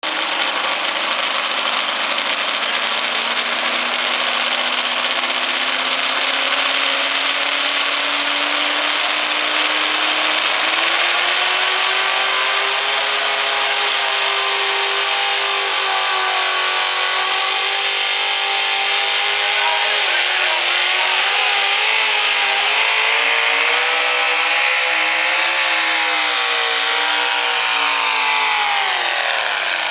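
Two-wheel-drive pulling truck's engine at full throttle during a truck pull. The revs climb over the first ten seconds or so, hold high and waver, then drop sharply near the end as the throttle comes off.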